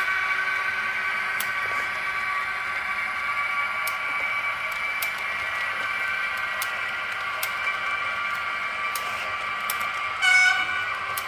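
Model train running on its layout: a steady high whine with scattered clicks, then a short horn toot near the end.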